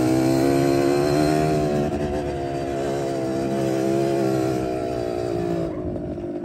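Yamaha DT two-stroke motorcycle engine running at a steady pace while riding, with wind rushing over the microphone; the wind noise drops away near the end.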